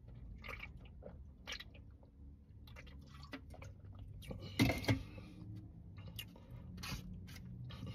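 Close chewing and mouth noises of a man eating a mouthful of chicken, rice and gravy, with scattered soft clicks and one louder brief noise a little past halfway.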